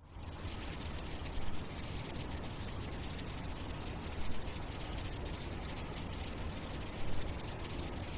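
Steady high-pitched chirring of crickets over a low rumbling background.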